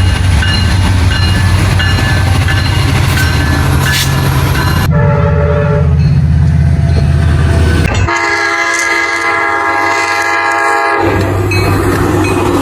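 Train running past with a steady low locomotive engine rumble, and a locomotive horn sounding a held chord for about three seconds after the middle.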